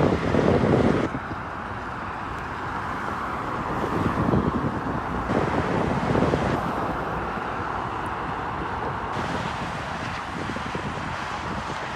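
Road and wind noise of a moving car, with a louder rumble in the first second and sudden changes in the sound several times.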